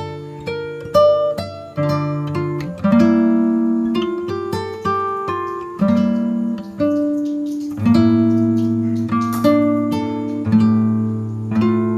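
Background music: acoustic guitar playing picked notes and strummed chords that ring out and fade, a new chord about every second.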